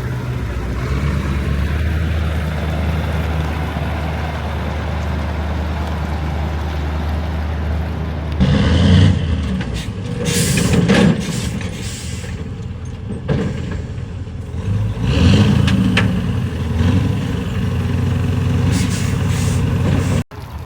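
Oilfield truck's engine running steadily, then working harder from about eight seconds in, with several sharp hisses of air in between.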